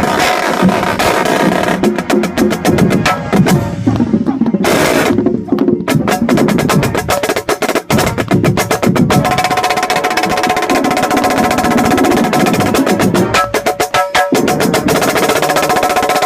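Marching snare drum played close by in fast rolls and rapid sharp stick strokes, over the full marching band's brass and percussion.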